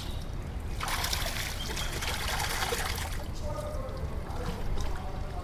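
Water pouring and splashing, heaviest for about two seconds starting a second in, then trickling away.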